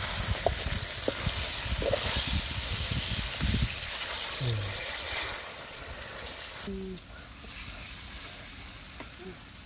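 Catfish pieces sizzling as they fry in an oiled wok over a wood fire, with knocks and scrapes from a wooden spoon stirring them in the first few seconds. The sizzle fades after about five seconds and is much quieter after about seven seconds in.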